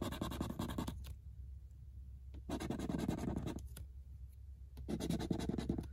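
Scratching the coating off a lottery scratch-off ticket: three bursts of rapid scraping, each about a second long, with short pauses between them.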